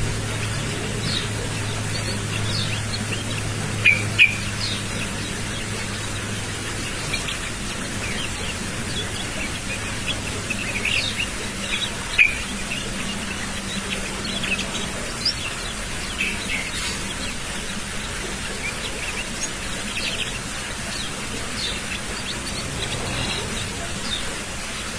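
Young white-eye (pleci) giving short, scattered high chirps and twitters: a juvenile bird practising its song. A low steady hum lies underneath for roughly the first ten seconds.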